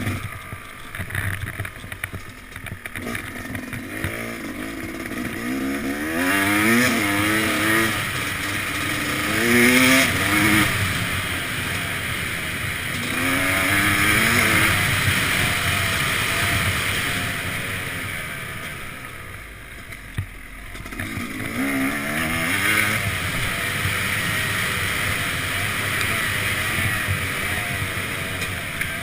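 Yamaha YZ250X's 250cc two-stroke engine under riding load, revving up again and again, its pitch rising on each pull and dropping back between. It eases off briefly about two-thirds of the way through, then picks up again.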